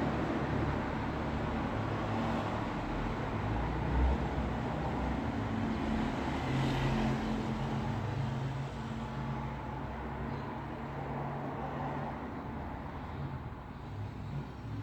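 Road traffic: a steady rumble of vehicle engines and tyres, with a low engine hum, easing off slightly over the second half.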